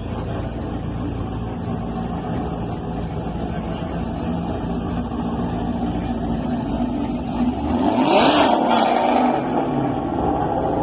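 Car engine running low and steady, then revving hard about eight seconds in as the car pulls away, its pitch rising before easing off.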